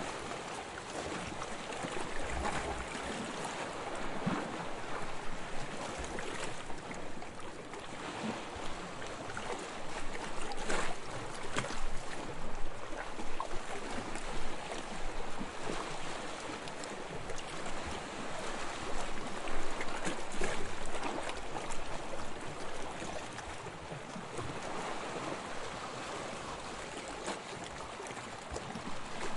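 Soft waves lapping on a sandy shore: a continuous wash of water with fine crackling and fizzing, swelling gently every few seconds as small waves come in.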